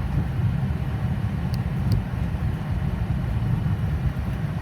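Boeing 737 jet engines running steadily, a constant low rumble, with a couple of faint ticks about one and a half and two seconds in.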